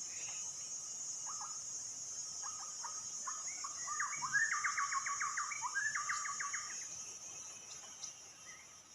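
A bird calling: a few short sliding notes, then a fast rattling chatter of about ten notes a second that stops near the end, over a steady high insect drone.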